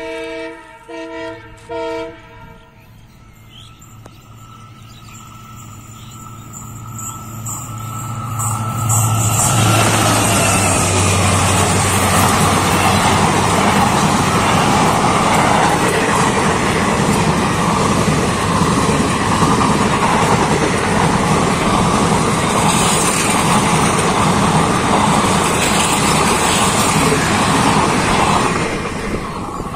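A train horn sounds three short blasts. The passenger train then approaches with a building rumble and passes at close range: the wheels and coaches on the rails make a loud, steady noise for about twenty seconds, which drops off near the end.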